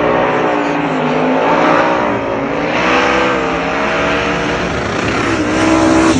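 Turbocharged race vehicle's engine running hard at full throttle, its pitch climbing and dropping several times.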